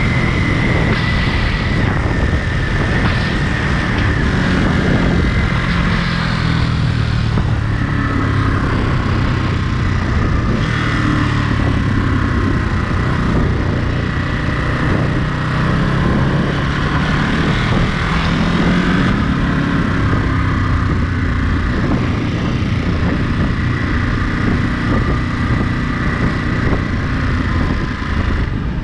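Ducati Monster 937's 937 cc L-twin engine running under way, its pitch drifting gently up and down with the throttle, with a steady rush of wind noise over it.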